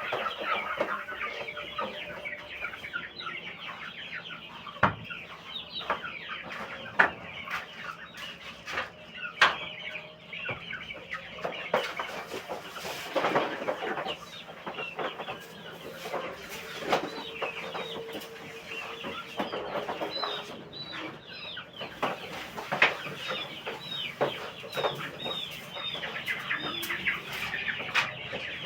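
A flock of village chickens clucking and calling continuously, many birds overlapping, with a few sharp knocks standing out.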